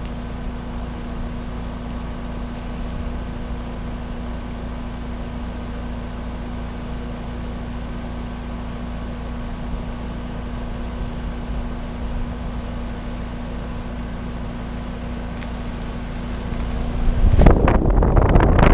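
Trane XR air conditioner's outdoor unit running steadily: an even mechanical hum with a constant low tone. About 17 seconds in, loud gusty wind noise buffets the microphone.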